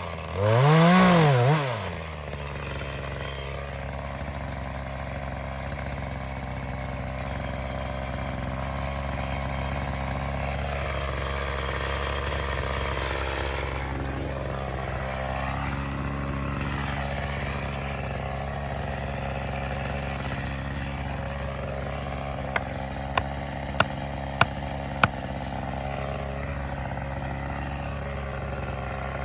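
Two-stroke chainsaw revving briefly, then dropping to a steady idle that runs on. About 23 seconds in come five sharp knocks in quick, even succession.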